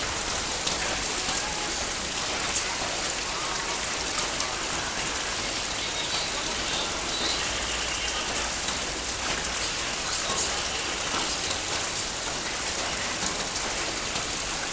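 Heavy rain falling steadily: a dense, even hiss of rain with many scattered drop ticks.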